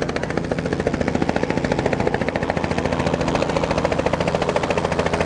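Helicopter rotor blades beating in a rapid, steady chop over the drone of the engine, loud and close.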